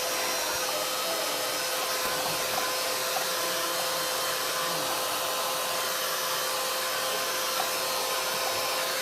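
Electric hot-air blower running steadily, a constant rush of air with a steady motor hum, drying a wet layer of distress ink and texture paste on a mixed-media card.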